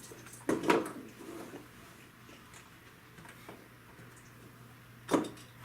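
Plastic Lego bricks being handled and pressed together: a louder rustle of pieces about half a second in, a few faint ticks, and a sharp click near the end.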